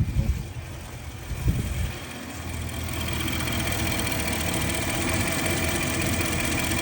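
Infiniti QX80's 5.6-litre V8 idling steadily, with a few short knocks in the first second and a half. The engine is running lean, with high, jumping fuel trims that the mechanic puts down to a vacuum leak, a weak fuel pump or, at worst, the computer.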